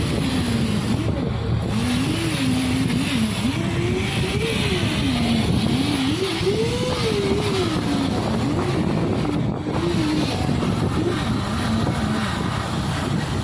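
Ship's engine-room machinery running, a loud steady noise. A faint tone slides slowly up and down in pitch through it.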